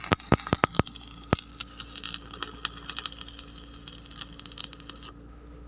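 Electric arc welding on a backhoe bucket: the arc crackles and sizzles, with sharp pops in the first second and a half, then settles to a steadier crackle that stops about five seconds in as the arc is broken.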